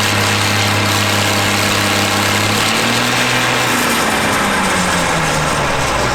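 John Deere 3650 tractor's six-cylinder diesel engine running on a PTO dynamometer. It holds steady revs, picks up slightly about three seconds in, then its speed falls away over the next two seconds.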